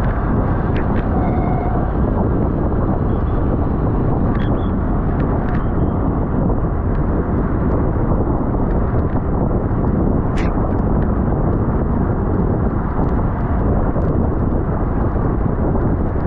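Steady, loud wind rush over the microphone of a camera moving at cycling race speed, with a few faint clicks and a brief high squeak about ten seconds in.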